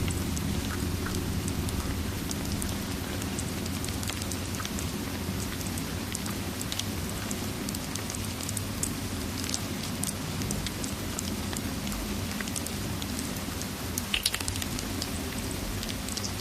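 Steady rain over a low rumbling bed, with scattered sharp crackles of a wood fire and a small cluster of louder crackles near the end.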